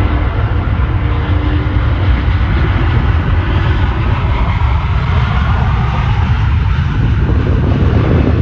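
Jet noise from a British Airways Airbus A380-800's four Rolls-Royce Trent 900 engines: a loud, steady, deep rumble with a hiss above it.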